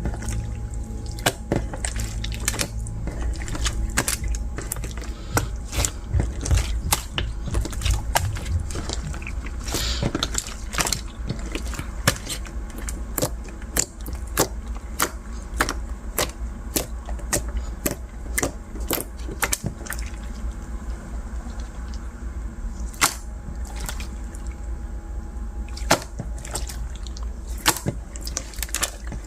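Translucent slime packed with plastic beads being squeezed and pressed by hand: a run of irregular sharp crackling clicks from the beads, with wet squishing.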